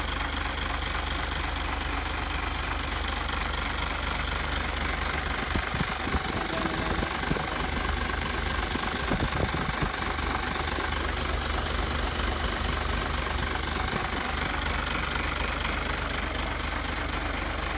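Truck engine idling steadily while its air conditioning is being charged with R134a refrigerant, with a few short clanks of handling near the middle.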